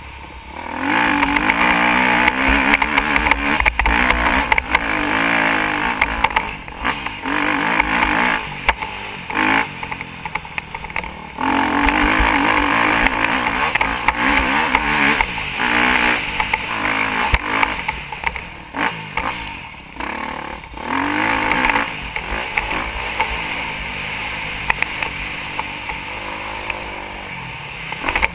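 Motocross dirt bike engine revving up and down repeatedly as the rider accelerates and backs off, with several short drops in sound between pulls.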